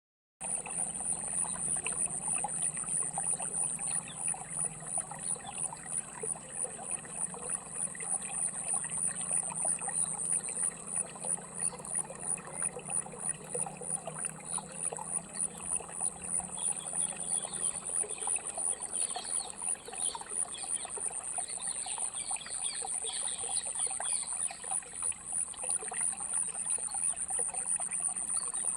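A small stream trickling and gurgling over stones, with a continuous high-pitched, rapidly pulsing insect trill above it, louder than the water.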